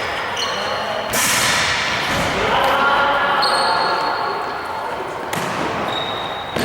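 Sounds of a tchoukball game in an echoing sports hall: the ball thudding and bouncing, with players' voices calling out. Two loud noisy bursts begin suddenly, about a second in and again near five seconds.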